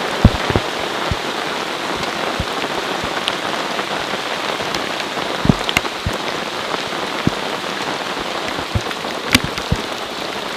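Heavy rain pouring steadily, with scattered loud drops striking close by.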